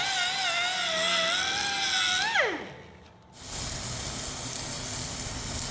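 A small high-speed grinder whining, its pitch wavering slightly under load, then switched off about two and a half seconds in and winding down. After a short pause comes a steady hiss.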